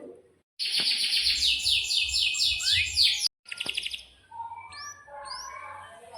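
Domestic canary singing a loud, fast rolling trill of rapidly repeated high notes that cuts off abruptly about three seconds in. A short second trill follows, then softer rising chirps and warbling.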